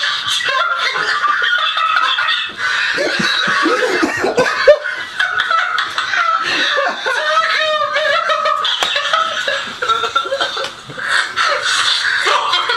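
People laughing without a break, a long fit of snickering and chuckling.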